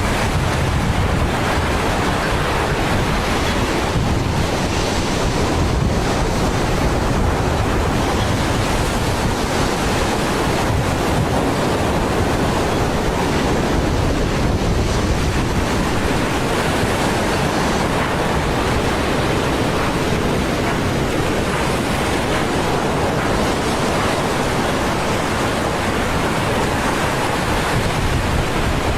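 Steady, loud rushing noise, even throughout, with no separate blasts, shots or tones.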